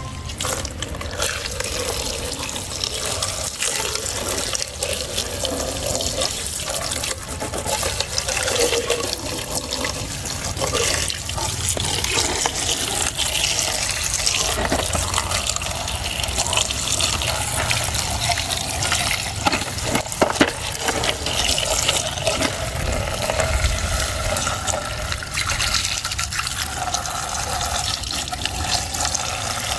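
Water running steadily, as from a tap, with a few faint knocks.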